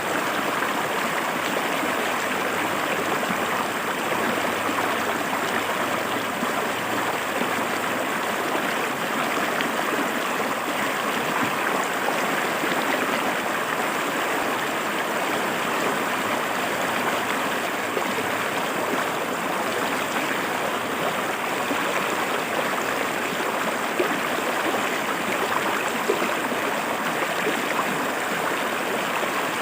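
Shallow river water flowing and splashing over rocks: a steady, even rushing babble with no change in level.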